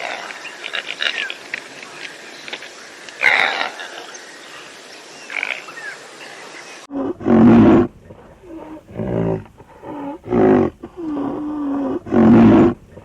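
Outdoor ambience with a few faint bird chirps, then from about seven seconds in a lion calling: a series of about five loud, deep, grunting roars.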